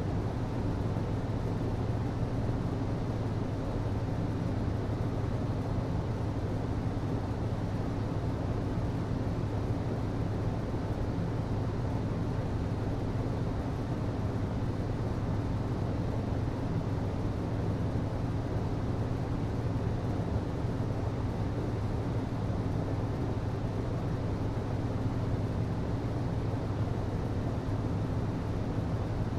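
HVAC system running steadily: a constant low hum with an even rush of air over it.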